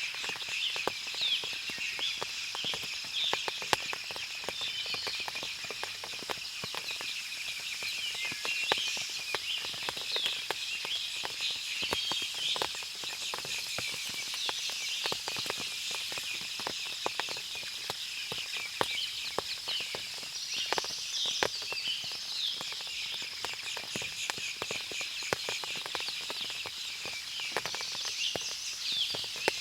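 Forest ambience after rain: many small birds chirping and calling over a steady high-pitched chorus, with frequent small ticks scattered throughout.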